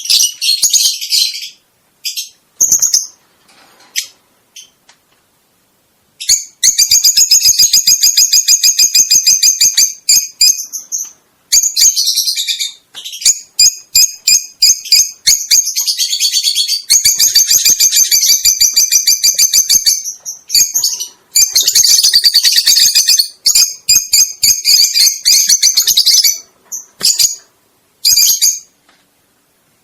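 A small cage bird singing: long runs of rapid, high trilled notes broken by short pauses. It is loudest and most continuous from about six seconds in.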